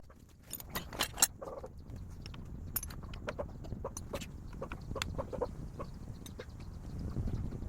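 Hens clucking in short, scattered calls, mixed with sharp clicks and clinks and a faint low rumble.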